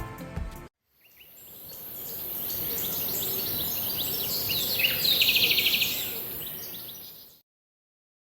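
Forest ambience fading in, with scattered bird chirps and a fast bird trill about five seconds in, over a steady high-pitched hiss. Music cuts off at the very start, and the ambience stops abruptly near the end.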